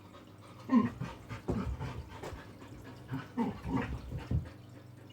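A dog panting and making short pitched vocal sounds in several bouts, about a second in, around two seconds and again between three and four and a half seconds.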